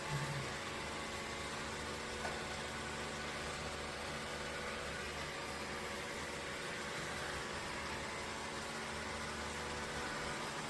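Dreame L10s Ultra robot vacuum running, a steady whir from its suction fan and drive motors, with a short low bump right at the start and a faint click about two seconds in.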